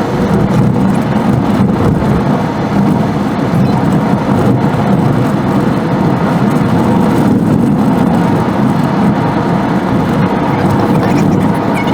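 Steady car driving noise, engine and tyres running continuously on the road.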